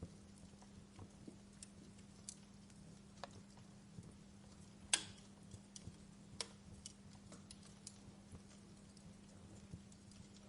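Wood fire in a fireplace crackling softly: scattered, irregular pops and snaps, the sharpest about five seconds in, over a faint steady low hum.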